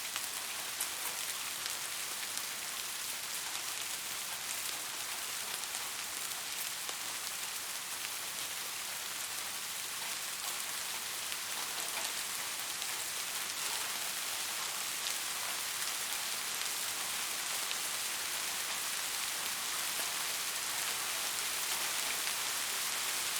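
Steady rain falling, a continuous hiss dotted with the ticks of individual drops, growing slightly louder in the second half.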